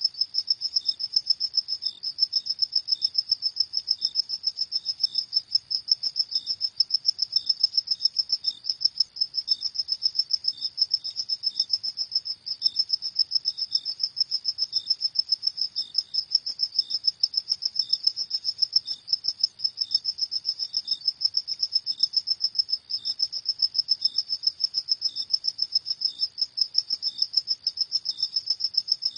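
Crickets chirping at night in a steady, rapid pulse of high-pitched trills with no pauses, with a second, fainter cricket chirping at a slightly lower pitch.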